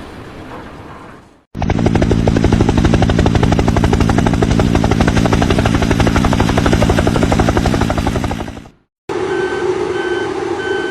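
A loud machine running with a fast, even chopping pulse that stops abruptly after about seven seconds. After a cut, a steady machine hum with a backup alarm beeping about once a second near the end.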